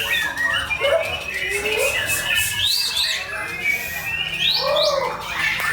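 White-rumped shama (murai batu) singing a varied run of short whistled notes that arch and glide up and down in pitch.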